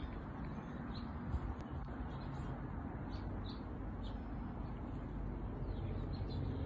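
Short, high bird chirps at irregular intervals, over a steady low outdoor hum.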